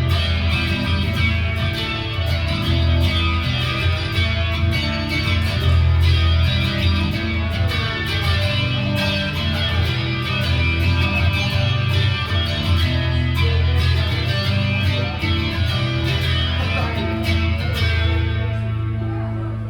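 Instrumental rock music: an electric guitar playing over bass, with no singing. The music thins out near the end.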